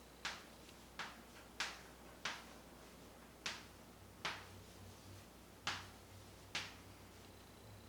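A series of sharp taps or clicks, about eight of them at irregular intervals, each dying away quickly.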